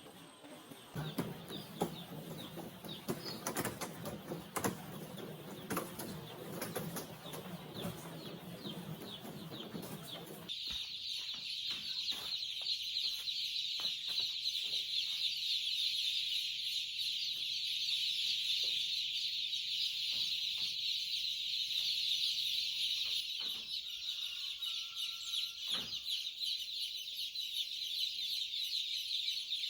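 A flock of chickens clucking and chirping together. About a third of the way in, the sound changes abruptly to a dense, steady, high-pitched chorus of many birds chirping, with scattered sharp ticks.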